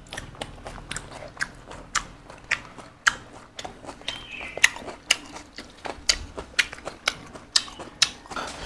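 Close-miked eating sounds: chewing and biting into boiled pork and crisp lettuce, with sharp, irregular clicks and crunches about twice a second.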